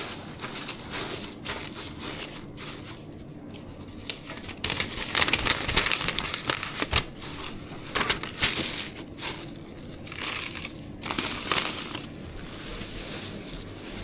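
Dry crinkling and crunching from handling the dessert in its crispy crumb coating and packaging, irregular and loudest in the middle.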